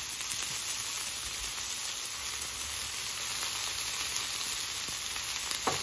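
Sliced mushrooms, onions, squash and zucchini sizzling steadily on a hot flat-top griddle, with a light knock near the end.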